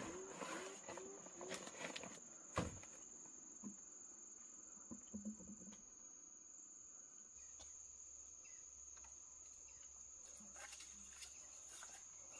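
Insects in the forest trilling in one steady, unbroken high tone, with a few faint knocks in the first few seconds.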